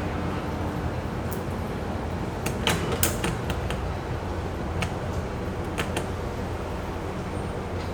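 Tugboat engine running with a steady low hum while berthing, with a quick cluster of sharp clicks and knocks about a third of the way in and two more single knocks later.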